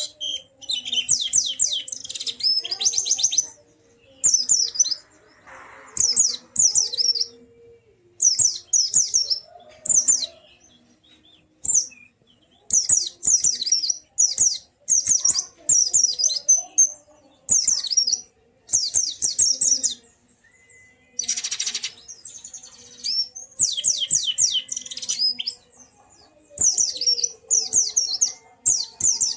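White-eye (pleci) singing: repeated bursts of rapid, high chirping phrases, each about a second long, with short pauses between them. A brief rustle comes a little past the middle.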